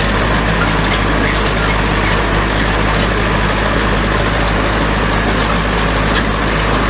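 Small short-wheelbase tractor's engine running steadily while pulling a hay rake.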